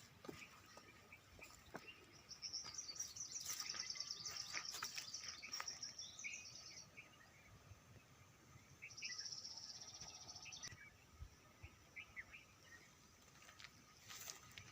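Faint songbird singing outdoors: a rapid high trill in two bouts, with scattered short chirps between them.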